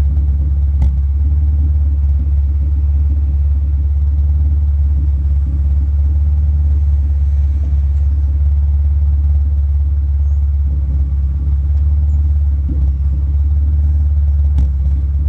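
Car engine idling with a misfire: a steady low rumble that stumbles unevenly.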